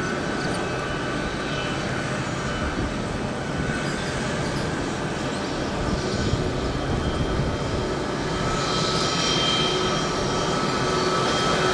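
Aircraft engines running steadily at an airport, a continuous rush with a thin whine that grows a little stronger in the last few seconds.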